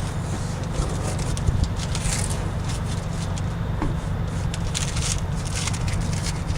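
Blue painter's tape being peeled away and protective paper pulled down and crumpled: a run of short crackling, scraping rustles over a steady low hum.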